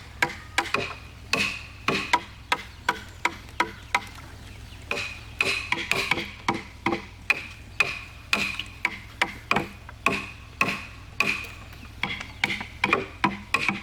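Repeated hammer blows, roughly two a second, each with a short metallic ring. The pace is uneven, with a short pause about four seconds in.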